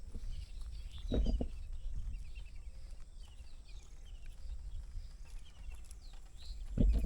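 Small birds chirping in many short, high calls, with two low thumps, one about a second in and one near the end.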